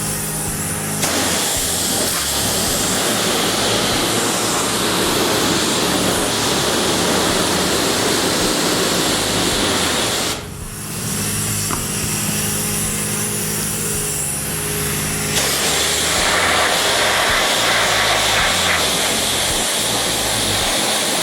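Self-serve car wash high-pressure wand spraying hot rinse water onto a plastic coolant reserve tank: a loud, steady hiss of spray. It starts about a second in and cuts out briefly around ten seconds in before resuming.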